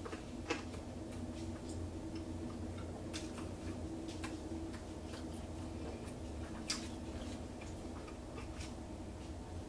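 A person chewing pizza with wet mouth clicks and smacks, irregular, with sharper clicks about half a second in and near seven seconds. A steady low hum runs underneath.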